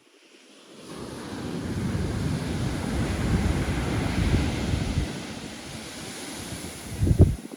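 Pacific surf: a wave breaks and washes up the shore, swelling over a few seconds and then easing off. Near the end, wind buffets the microphone in a short loud rumble.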